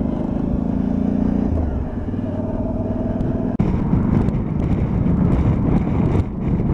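Motorcycle engine running steadily at road speed, with wind rush. About three and a half seconds in, the sound turns rougher and noisier.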